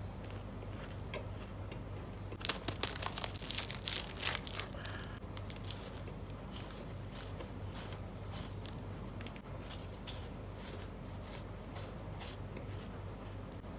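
Plastic snack wrapper being torn open and crinkled in a loud burst of crackling starting about two and a half seconds in. Scattered crinkles and crunches follow.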